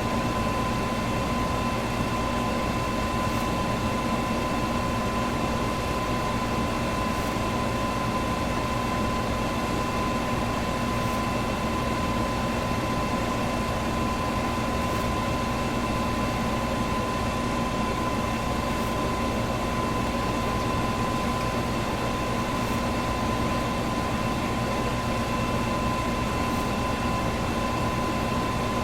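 Electric fan running steadily: an even rush of air with a constant motor hum and a thin high whine.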